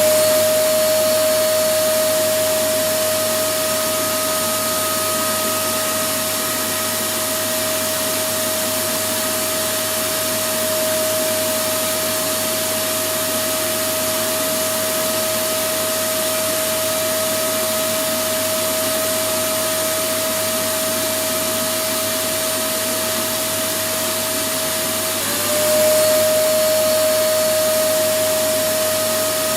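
Electric vacuum cleaner running steadily: a constant rushing motor noise with a high whine. About 25 seconds in, the whine dips briefly, then climbs back and the sound swells a little.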